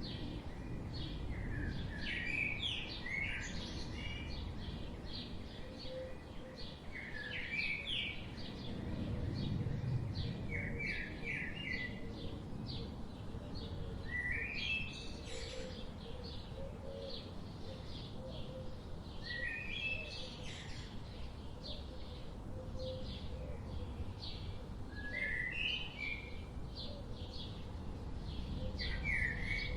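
Forest birdsong: one bird repeats a short song phrase every few seconds while other birds give many faint chirps, over a steady low rumble of background noise.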